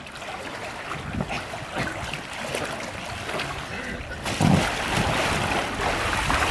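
Swimming-pool water splashing and lapping, with wind on the microphone; the noise grows louder about four seconds in.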